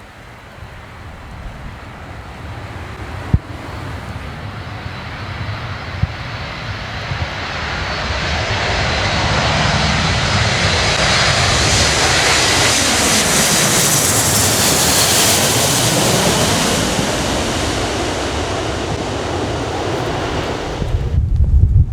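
Boeing C-17A Globemaster III's four turbofan engines as the transport flies past on arrival, the jet noise building to its loudest about two-thirds of the way in, falling in pitch as it passes, then easing off. Wind buffets the microphone near the end.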